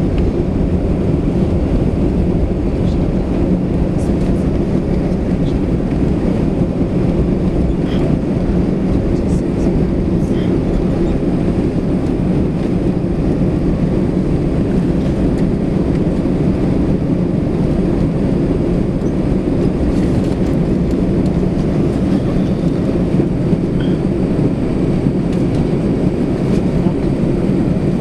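Steady low rumble of a Swiss Airbus A320 heard from inside the cabin while the aircraft is on the ground after landing, with a few faint clicks over it.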